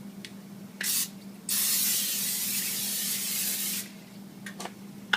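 Aerosol cooking spray being sprayed onto a baking pan: a short hiss about a second in, then a longer spray lasting a little over two seconds.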